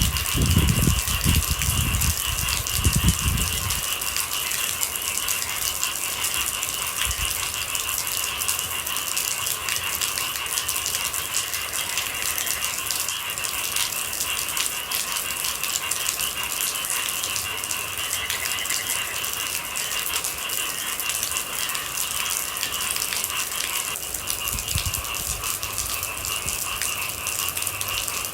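Steady rain pattering, a dense, even patter of fine drops, with a few low thuds in the first few seconds.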